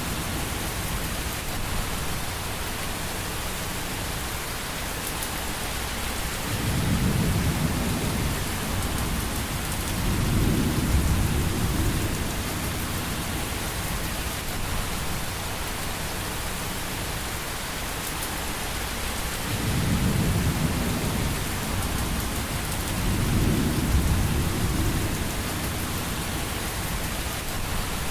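Thunderstorm ambience: steady rain hiss with low rolling thunder, rumbling twice about 7 and 10 seconds in and twice more about 20 and 23 seconds in.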